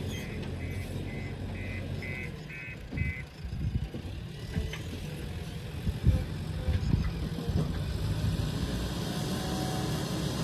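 Heavy diesel engine running steadily, with an electronic warning beep repeating about three times a second that stops about three seconds in. It is followed by a few irregular knocks and thumps.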